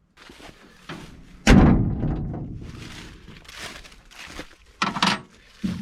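A heavy slam about a second and a half in, like a metal door or panel being shut, its rumble dying away over a second or so, amid smaller knocks and handling sounds.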